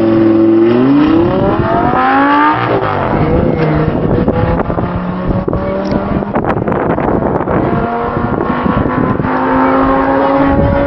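A drag-racing car's engine accelerating hard, its pitch climbing steeply over the first couple of seconds. Steadier engine notes follow, with another slowly rising note near the end.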